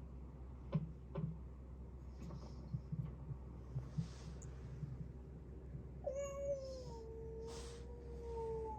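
A cat meowing: one long, drawn-out meow that starts about six seconds in and falls slightly in pitch. Before it come a couple of sharp clicks and some soft knocks.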